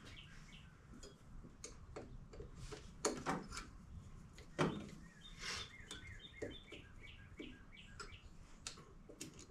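Faint, scattered clicks and knocks of hand tools and metal parts being handled in an engine bay, a couple of them louder about three and four and a half seconds in, with small birds chirping in the background.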